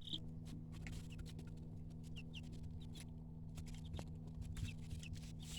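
Young chicks peeping now and then in short high notes, among many light scratching and pattering clicks, over a steady low hum.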